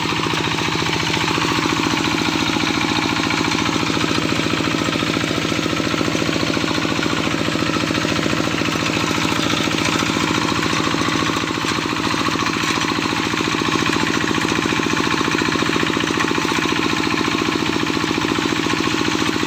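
A small engine running steadily, with a fast, even rattle.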